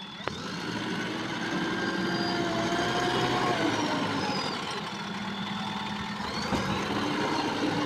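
JCB backhoe loader's diesel engine running steadily, its pitch rising and falling slowly, with a sharp click just after the start.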